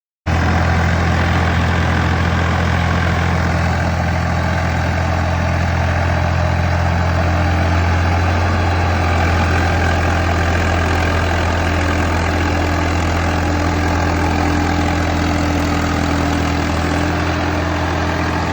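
Swaraj 855 tractor's diesel engine running at a steady speed, a deep even hum, cutting in suddenly a moment in.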